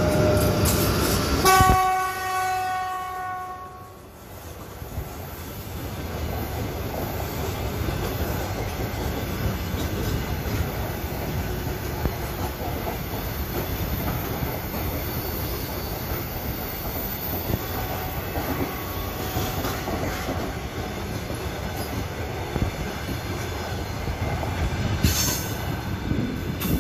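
An EP1M electric locomotive runs past at close range and gives a horn blast of about two seconds about a second and a half in, dropping slightly in pitch as it moves away. After that, the wheels of the passenger coaches roll steadily on the rails as the train goes by.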